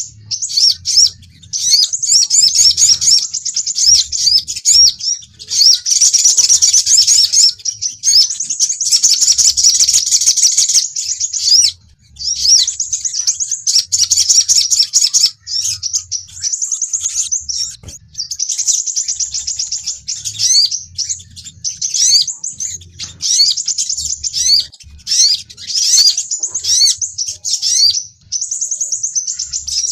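Recorded sunbird calls (sogon and sepah raja) played as a bird-trapping lure: rapid, high-pitched chirping and trilling in runs of a few seconds, broken by brief pauses.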